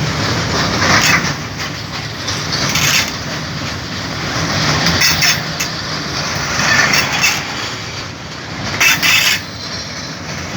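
A long freight train passing close by, its wheels running over the rails in a steady loud rumble that swells every couple of seconds as wagons go by.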